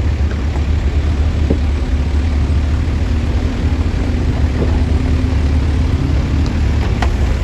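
Heavy diesel engine running steadily with a deep, even rumble, and a faint steady hum that comes in about a second and a half in and drops out near the end.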